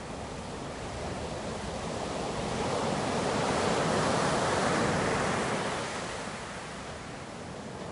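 Ocean surf: a wave building to its loudest about halfway through, then washing back and easing off.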